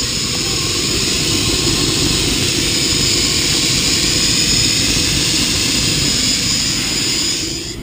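Loud, steady rushing hiss and rumble from an oil-fired steam locomotive, building up and then cutting off sharply near the end.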